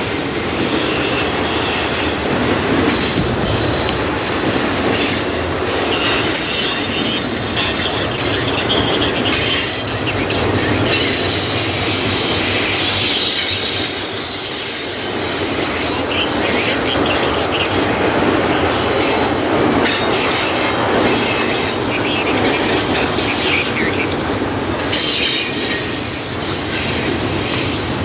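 Railroad cars rolling past steadily, their steel wheels squealing against the rail in high-pitched squeals that come and go throughout.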